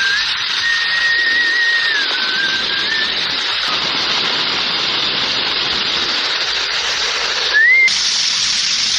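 Wind and rain storm: a steady loud hiss with a thin, wavering whistle of wind over the first three seconds and a short rising whistle near the end.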